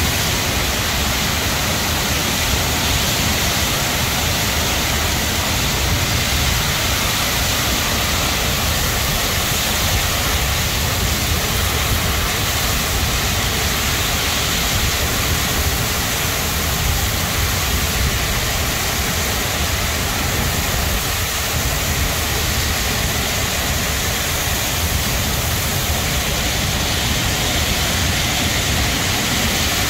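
Torrential thunderstorm downpour: heavy rain falling in a dense, steady rush, with a low rumble of storm wind underneath.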